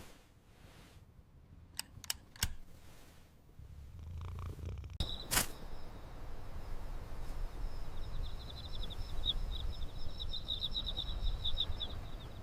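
Domestic cat purring, a low rumble that starts about four seconds in. A few sharp clicks come shortly before it, and a high, pulsing trill runs through the second half.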